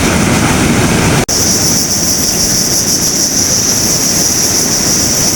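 Big waves breaking on the beach with strong wind blowing across the microphone, a loud steady roar. About a second in the sound cuts out for an instant, and after that a steady high-pitched hiss runs on top.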